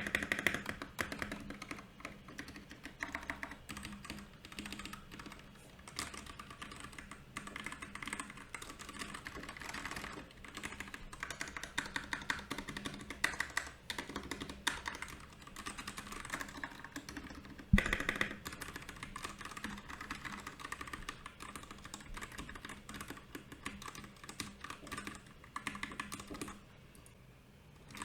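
Mechanical keyboard, a Royal Kludge RK68, being typed on in a fast, continuous run of key clicks, with one louder knock about two-thirds of the way through and a brief pause near the end.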